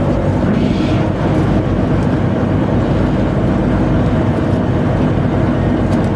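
Tugboat machinery running with a steady, loud low drone while the towing line is shortened.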